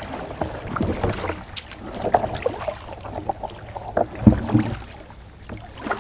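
Kayak paddle dipping and splashing as the kayak is manoeuvred, with irregular small knocks and a heavier low thump about four seconds in.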